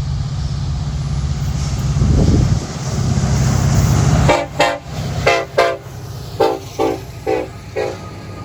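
Freight train's diesel locomotives rumbling past, loudest a little after two seconds in. The rumble drops away just after four seconds, and a horn then gives a string of about eight short toots.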